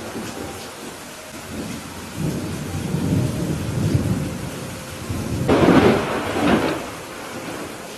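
Thunderstorm: steady rain with thunder rumbling low from about two seconds in, then a louder, sharper thunderclap just past the middle that fades out within about a second and a half.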